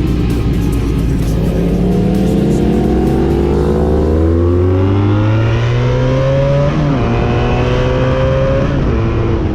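Honda Magna V65's V4 engine through a Kerker 4-into-1 exhaust under hard acceleration, the pitch climbing steadily, then dropping at an upshift about seven seconds in and again near the end as it pulls up through the gears.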